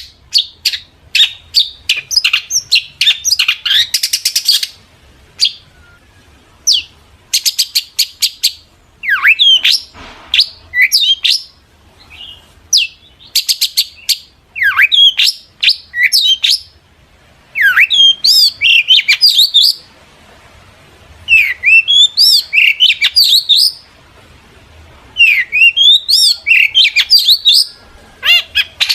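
Long-tailed shrike singing loudly in bursts: rapid ticking runs and quick notes that slide down in pitch, in phrases of a second or two with short pauses between them.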